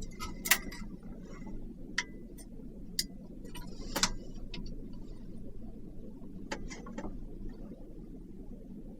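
A series of light knocks and clicks from hard objects being handled, about ten spread unevenly, a few with a short metallic ring, over a steady low hum.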